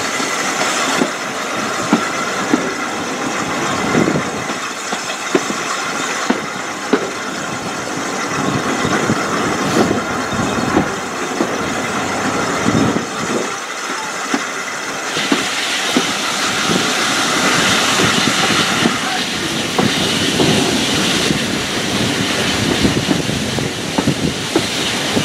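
Heritage railway train running along the line, heard from an open carriage window: a steady rolling rumble with irregular sharp clicks of wheels on the rails. A louder hiss joins in about two-thirds of the way through.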